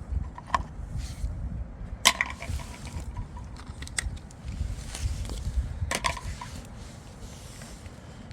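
Handling of the sharpening stone and its water: a few sharp knocks and clicks, about two seconds apart and the one about two seconds in the loudest, over a low rumble.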